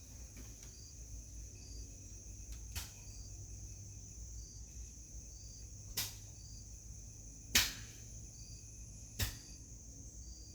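Insects, crickets by the sound of it, keeping up a steady high drone with a short repeated chirp about every second and a half, over a low wind rumble. Four sharp snaps cut through it, the loudest about three quarters of the way in.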